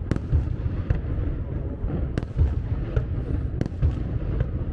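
Fireworks display heard from a distance: about six sharp shell bursts over a continuous low rumble of overlapping bangs and echoes.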